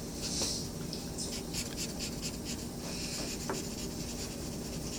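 Coloring on paper by hand: quick, repeated scratchy strokes, several a second.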